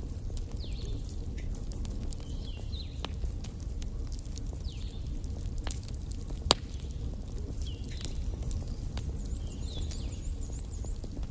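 Wood fire burning in a fireplace: a steady low rumble with irregular sharp crackles and pops, the loudest pop about six and a half seconds in. Faint short high whistles come and go every couple of seconds.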